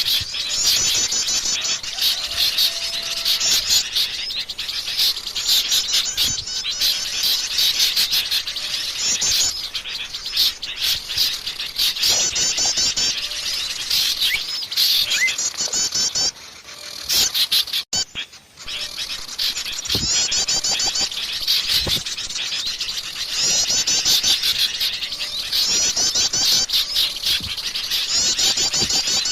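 Dense, busy chorus of small songbirds chirping and chattering rapidly, a bird-lure (pikat) recording meant to draw in many kinds of small birds. The calling thins out briefly about two thirds of the way in, then resumes just as thick.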